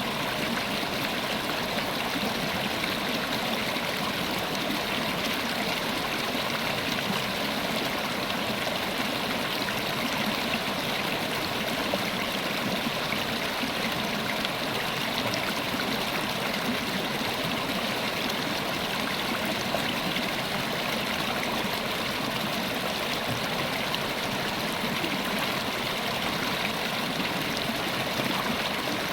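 River water running and trickling over stones, a steady even rush with no let-up.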